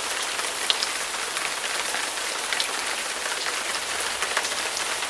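Steady rainfall, a dense patter of rain with occasional louder single drops.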